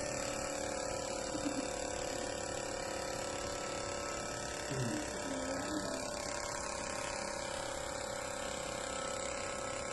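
Small electric motor and fan of a homemade plastic-bottle vacuum cleaner running steadily, a continuous buzz with a steady whine. A faint voice-like sound comes in briefly about five seconds in.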